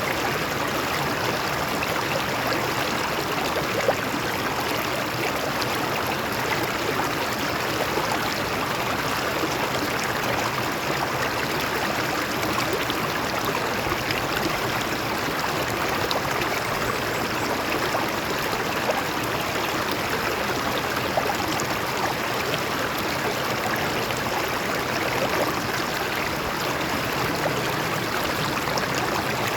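Water flowing over rocks in a stream: a steady, even rush of running water with small scattered splashes.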